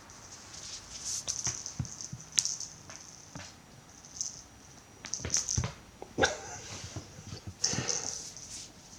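Cat play with a toy mouse: scattered clicks, taps and scuffles, with a short cat call about six seconds in and another near the end.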